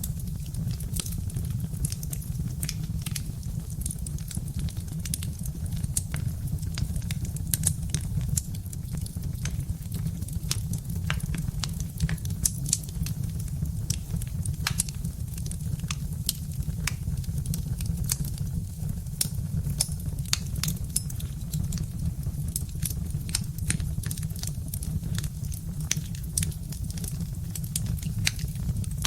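Birch-wood fire crackling, with frequent irregular sharp pops and snaps over a steady low rumble.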